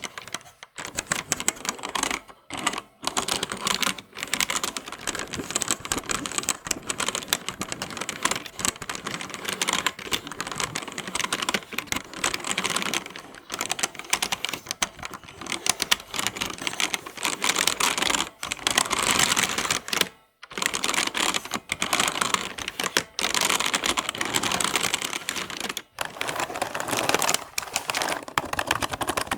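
Computer keyboard typed on quickly and continuously, a dense run of crisp key clicks with a few short pauses, the longest about two-thirds of the way through.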